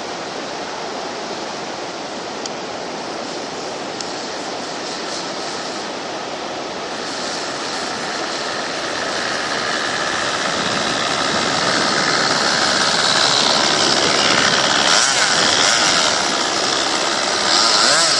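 An RC model airplane's engine, a high buzzing that grows louder about halfway through as the plane comes closer, with its pitch sliding as it passes, over steady wind noise on the microphone.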